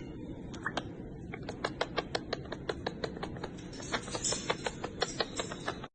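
Faint, quick, irregular clicking of parrots' beaks, several clicks a second.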